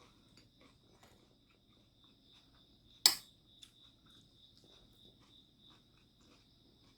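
Quiet eating at a table: faint chewing and small clicks of utensils. About three seconds in, a single sharp clack of a utensil striking a dish stands out. A faint steady high-pitched whine runs underneath.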